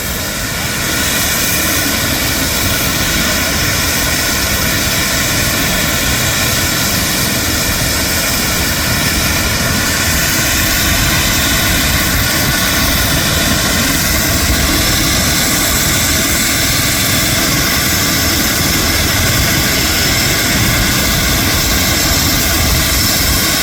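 Helicopter running at close range: a steady turbine whine with many high tones over a dense, churning low rumble from the rotor. It swells up over the first second, then holds steady.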